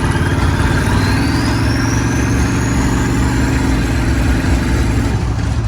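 Twin-turbo 350 small-block Chevrolet V8 in a rat rod running under way, with a high whine that climbs steadily over about four seconds as the turbos spool up.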